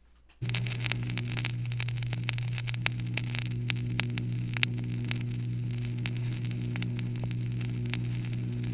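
Surface noise from a vinyl record's lead-in groove: scattered crackle and pops over a steady low hum, starting abruptly about half a second in.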